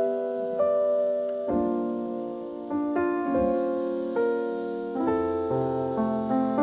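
Slow soul-blues intro played on piano, with notes and chords struck one after another and left to ring; a bass line comes in about five seconds in.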